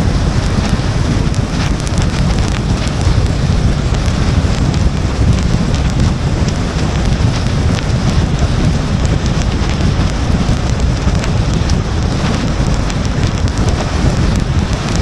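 Steady rain on a moving car, with a low rumble of road and wind noise under many sharp raindrop ticks.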